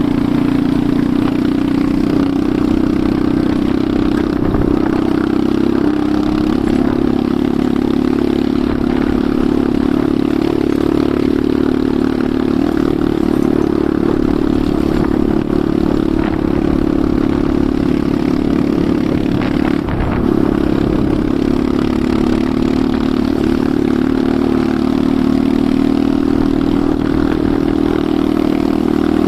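Enduro motorcycle engine running under way at fairly steady revs, its pitch dipping and rising slightly now and then.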